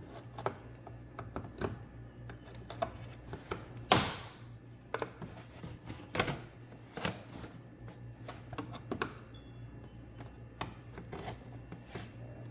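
Irregular sharp plastic clicks and knocks as the air intake duct is unclipped and worked loose from the top of a Mercedes V8 engine, the loudest knock about four seconds in.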